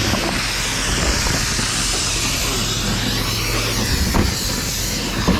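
Steady vehicle noise: a low engine hum under a broad hiss, with a few faint knocks.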